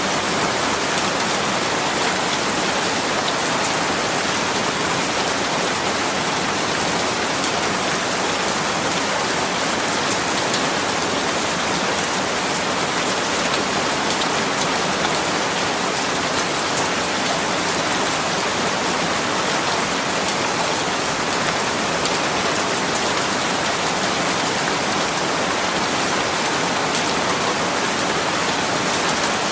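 Steady rain falling and pattering on a surface, an even hiss full of fine drop ticks that holds at the same level throughout.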